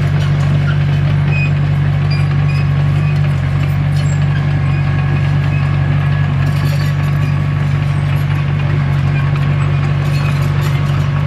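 Diesel engine of a heavy earthmoving machine running steadily at a constant pitch, with no change in revs.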